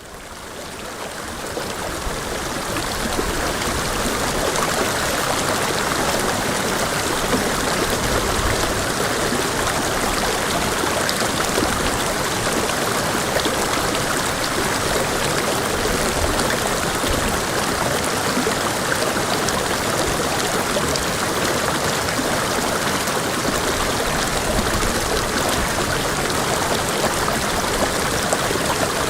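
Creek water rushing and splashing steadily over rocks, fading in over the first couple of seconds.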